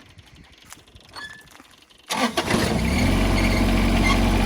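Cub Cadet Yanmar SC2400 compact tractor's diesel engine starting about two seconds in, catching quickly and settling into a steady idle.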